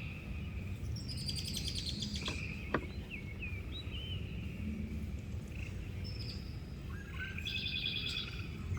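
Birds chirping and trilling in short repeated phrases over a steady low rumble, with one sharp click a little under three seconds in.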